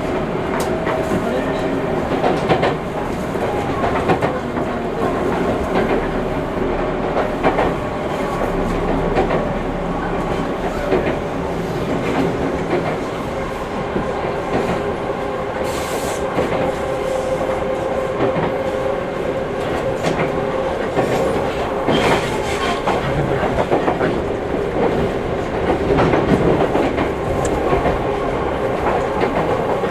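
Seibu 6000 series electric train with Hitachi GTO-VVVF traction equipment running at speed, heard from inside the car: steady rumble of wheels on rail with held motor tones. A few sharp clacks from the wheels, the clearest about halfway through and again some six seconds later.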